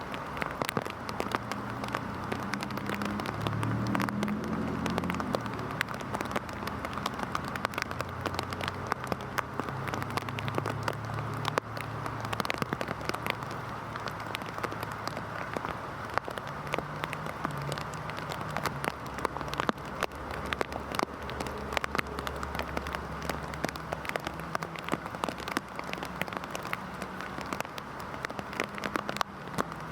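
Heavy rain falling steadily, with many individual drops ticking sharply on a surface close by. Under it runs a low hum that swells a few seconds in and again past the middle.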